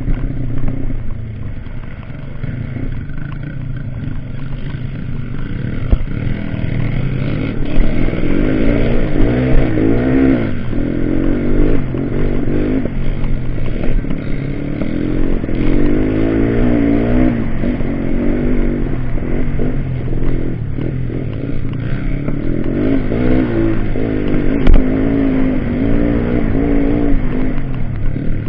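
Dirt bike engines running and revving, the pitch rising and falling again and again as the throttle is worked, with a sharp knock about three-quarters of the way through.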